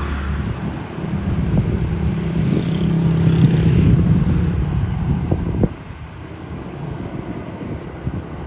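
Jet airliner passing on its landing approach: a loud, low rumble with a steady engine tone, wind buffeting the microphone. The rumble cuts off suddenly a little over halfway through, leaving quieter wind noise.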